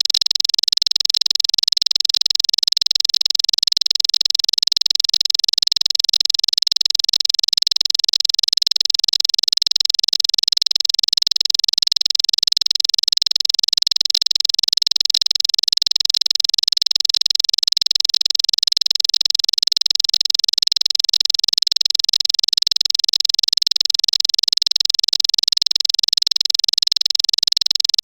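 Bar-winged prinia (ciblek) song in its 'cetrekan' style: a fast, unbroken, high-pitched chattering trill at an even level.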